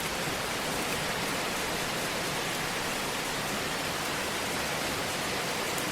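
Fireplace fire giving a steady hiss, with a few faint, small crackles.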